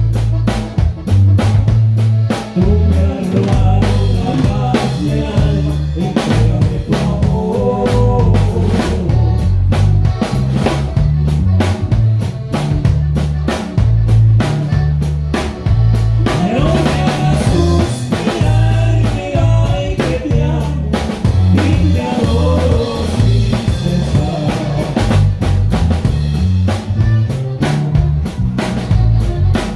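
Drum kit playing a steady beat of bass drum, snare and rimshots along with norteño band music, over a bass line stepping between low notes.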